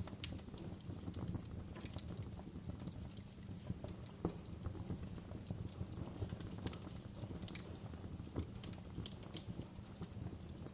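Wood fire crackling: irregular sharp pops and snaps, several a second, some louder than others, over a steady low rumble of the burning fire.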